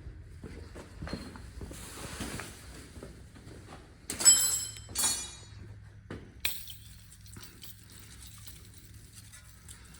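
Two sharp metallic clanks with a ringing tone, then an aerosol can hissing steadily as penetrating spray is sprayed over the engine's bolts to loosen them before disassembly.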